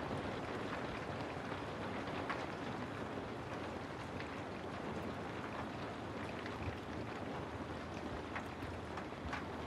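Steady rain falling, an even hiss with scattered faint drop ticks, used as white-noise background.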